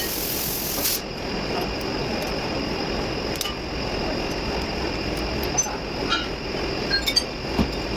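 Volvo truck diesel engine running steadily, with a sharp hiss of air for about the first second.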